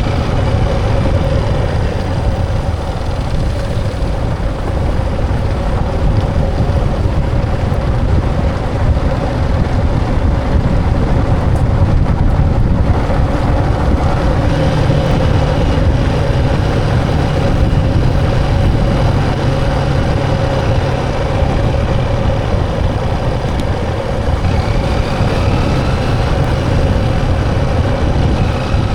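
Motorcycle engine running steadily while riding, with a heavy low rumble underneath.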